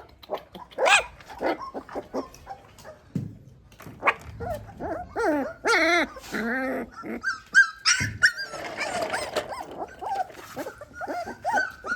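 Puppy whining and yelping in a run of short, high, wavering cries, with a few barks among them.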